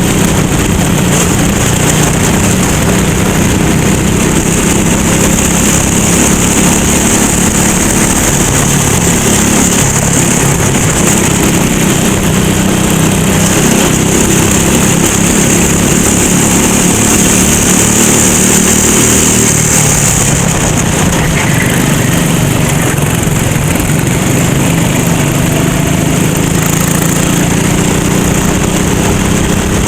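Racing kart's small engine running hard and continuously, its revs falling about twenty seconds in and climbing again near the end, with a steady high hiss over it.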